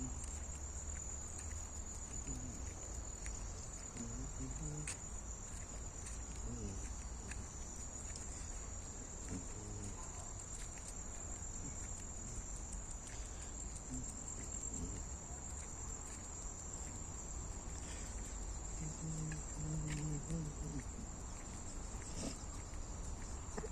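Insects trilling: a steady high-pitched drone that holds unbroken throughout.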